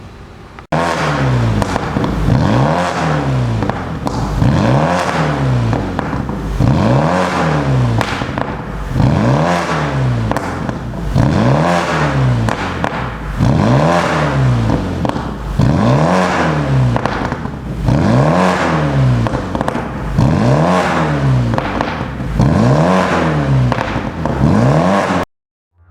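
BMW E90 320i four-cylinder engine revved repeatedly through an aftermarket dual valved exhaust, each blip rising and falling in pitch about every two seconds, around a dozen times. It starts just under a second in and cuts off suddenly near the end.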